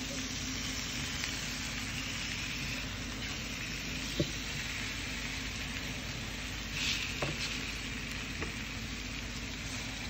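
Strips of banana peel sizzling steadily as they fry on an electric griddle. There is a sharp click about four seconds in and light spatula scrapes and taps a few seconds later as the peels are turned.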